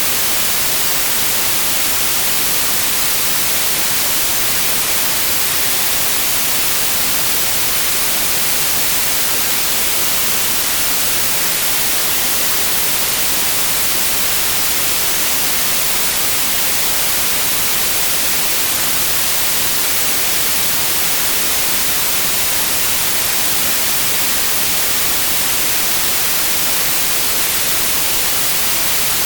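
Steady white noise: an even, loud hiss with no change or events.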